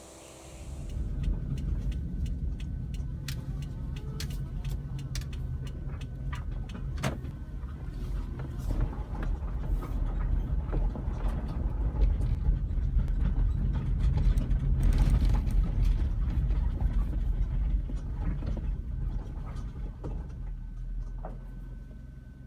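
Low, steady rumble of a car driving, with scattered clicks and ticks throughout.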